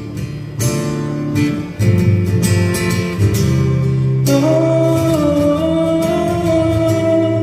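Live acoustic guitar strumming chords under a singer's voice, which holds one long note from about four seconds in.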